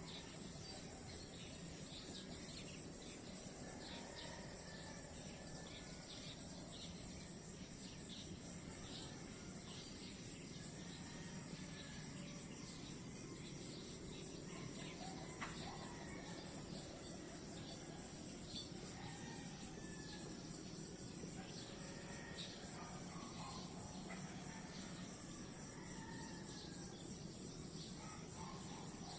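A steady, high insect chorus, with scattered faint short chirps.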